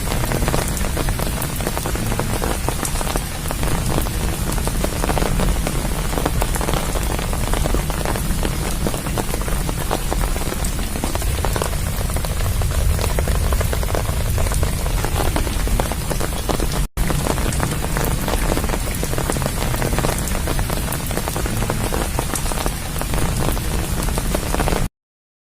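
Steady rain falling, a dense continuous patter of drops. It breaks off for an instant about two-thirds of the way through, then stops abruptly near the end.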